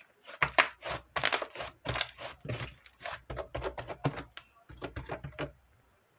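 A rapid, irregular run of crinkling, rustling and knocking noises, several a second, which stops about five and a half seconds in.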